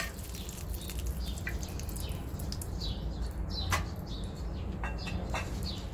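A few short bird chirps and light clicks of a metal spatula over a steady low rumble, with oil frying faintly on a flat tawa.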